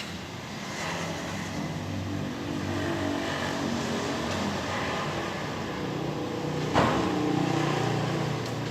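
A vehicle engine running through its exhaust, its pitch shifting a little with the throttle, with one sharp crack about seven seconds in.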